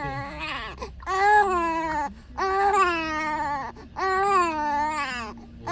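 A baby crying in long wails, three in a row with short breaths between.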